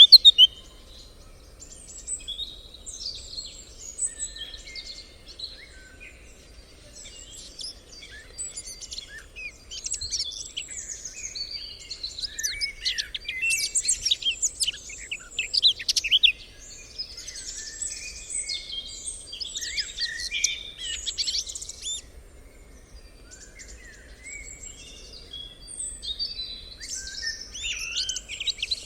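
Several songbirds chirping and singing together, with overlapping high trills and short calls, busier in the middle and again near the end.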